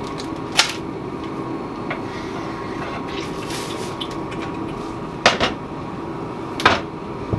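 Metal clunks as the contact-wheel attachment is pulled off a belt grinder and set down, ready for the platen: three sharp knocks, about half a second in, then twice near the end, over a steady hum of shop machinery.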